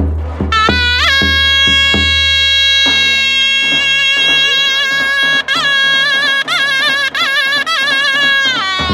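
Zurna playing a long held high note, then quick ornamented trills and turns, breaking off just before the end. A drum beats under it in the first few seconds.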